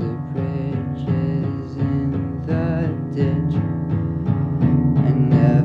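Acoustic guitar playing an instrumental passage between sung lines, steady plucked chords.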